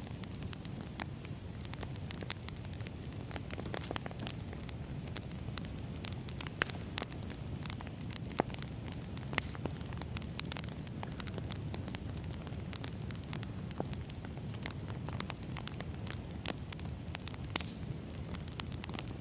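Wood fire burning: a steady low rumble of flames with frequent irregular crackles and a few louder pops of burning logs.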